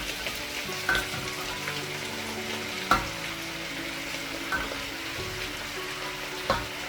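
Beef, onions and carrots frying in olive oil in a pan with a steady sizzle, as chopped cabbage goes in and is stirred. A few sharp knocks of the stirring utensil on the pan come about a second in, about three seconds in and near the end.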